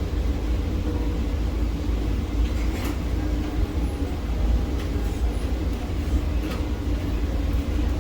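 Steady low rumble and hum of a container gantry crane's machinery, with a few faint clicks.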